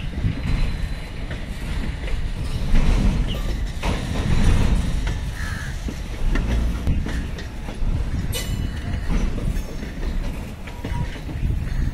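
A passing Indian Railways train of NMG automobile-carrier coaches converted from old passenger coaches: a steady rumble of wheels on the rails, with clacks as the bogies cross rail joints.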